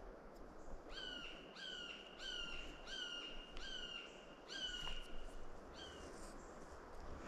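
A bird calling about seven times in a row, each call a short, slightly falling note, about one and a half calls a second, stopping about six seconds in.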